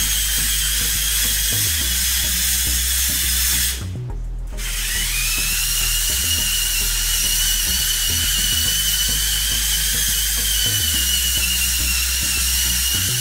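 Electric drive motors and gearing of a HEXBUG VEX Robotics Offroad Truck, a remote-controlled toy truck, whining as it drives. The whine stops for about a second near four seconds in, then starts again and rises in pitch as the truck picks up speed.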